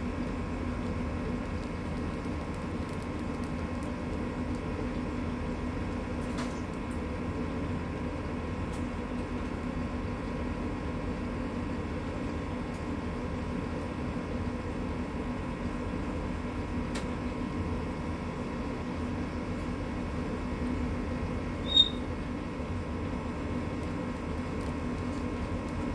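A steady mechanical hum with a few fixed tones runs throughout, with faint ticks here and there. Near the end, one brief high chirp from a young mangrove whistler stands out: an early 'crat crit' call of a fledgling just starting to find its voice.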